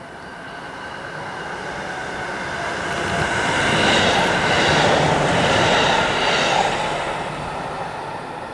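JR Hokkaido 711 series electric multiple unit passing at speed on the rails, growing louder as it approaches, loudest as it runs by about four to six seconds in, then fading as it recedes.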